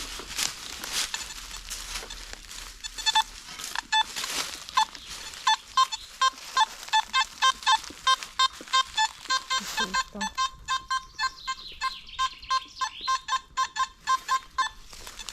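Metal detector beeping in a rapid run of short, even tones, about four a second, as the coil is swept over buried metal. The run starts about three seconds in and stops shortly before the end, after some rustling at the start.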